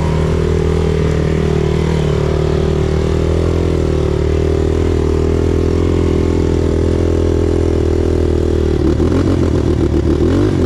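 Motorcycle engine running steadily at a constant pitch. About nine seconds in, the pitch starts to waver unevenly as the revs change.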